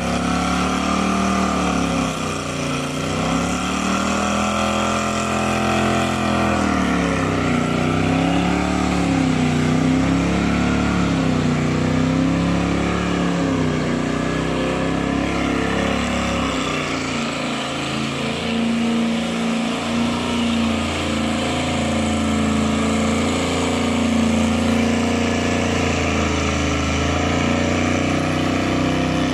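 Second-generation Chevrolet Camaro doing a burnout and donuts: the engine is held at high revs with its rear tyres spinning. The revs swing up and down repeatedly in the first half as the throttle is worked, then hold steadier later on.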